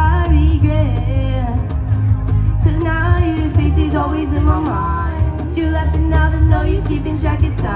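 Live band performing a song with a singer, over a strong bass line.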